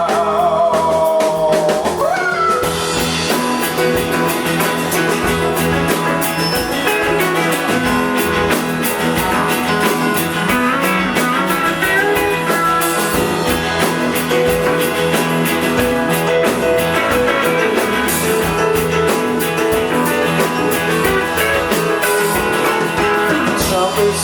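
Live rock band playing an instrumental passage between sung lines: electric guitars, bass and drums with a steady beat.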